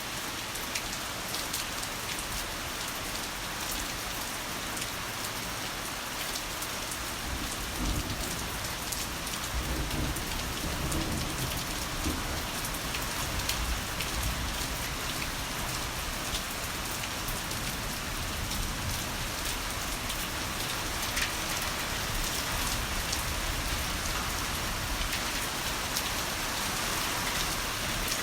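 Heavy rain falling steadily, with a low roll of thunder building about eight seconds in and rumbling for several seconds.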